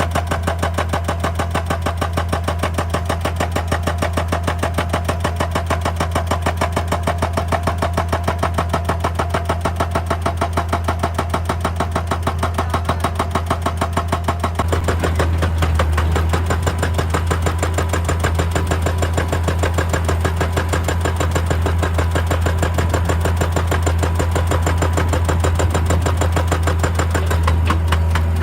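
Excavator's diesel engine running steadily with a fast, even pulse. About halfway through it gets louder and deeper.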